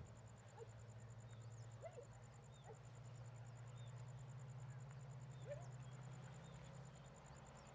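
Faint outdoor ambience: scattered short bird chirps over a steady low hum and a steady high-pitched pulsing tone.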